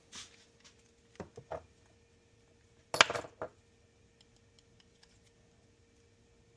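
Small hard objects being handled on a workbench: a few light knocks, then a short metallic clatter about three seconds in, over a faint steady hum.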